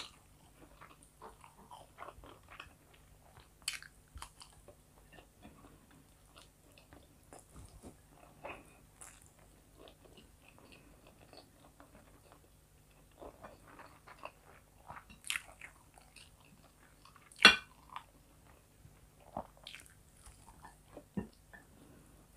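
Close-miked chewing and mouth sounds of a person eating fried chicken fillet and rice by hand, with scattered short crunches and clicks. The loudest crunch comes about three-quarters of the way through.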